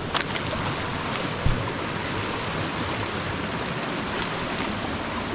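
Steady rushing of flowing stream water, with a soft low thump about one and a half seconds in.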